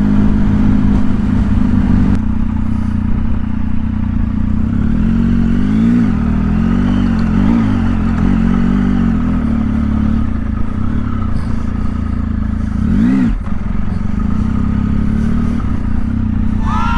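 Triumph Tiger 1050's three-cylinder engine running under way, its revs rising and falling several times, with a sharp drop and pick-up about thirteen seconds in.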